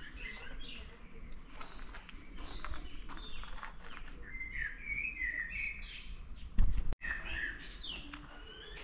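Small birds chirping and trilling. About two-thirds of the way through comes a brief loud low rumble, and the sound cuts out for an instant.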